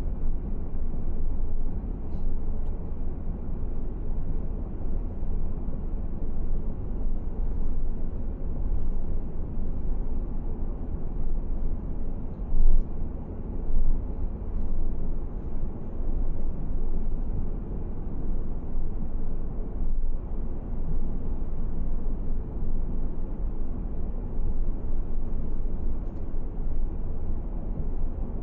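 Steady low rumble of a car driving, engine and tyre noise, with two brief louder bumps about halfway through.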